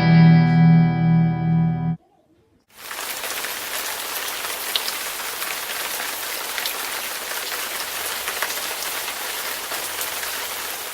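A held, distorted electric guitar chord that cuts off about two seconds in, then after a short gap steady rain falling on a surface, both stock iMovie sound effects.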